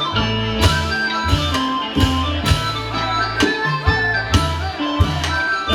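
An Isan pong lang folk ensemble playing. Drum strokes land about once or twice a second over held low bass notes, with melody notes sounding above.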